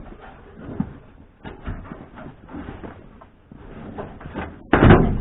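A car's interior headliner being worked loose by hand: scattered light knocks, clicks and rustles of the panel and its fasteners, then a sudden loud rough thump and rustle near the end.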